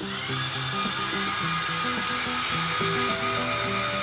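Electric motors of a LEGO Technic 42100 Liebherr R9800 excavator running, a steady whirring whine that cuts in suddenly, as the arm drives itself back into position under app control. Soft background music with plucked notes plays underneath.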